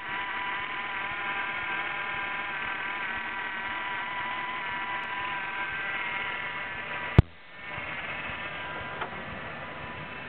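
1999 Ford Taurus engine idling, a steady hum with a whine. A single sharp bang about seven seconds in, after which the engine sounds quieter.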